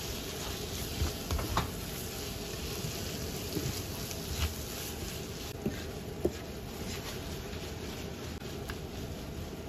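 Sambal ebi (chili and dried shrimp paste) frying in a nonstick pan with a steady sizzle, while a plastic spatula stirs and scrapes through it, with scattered light clicks of the spatula against the pan.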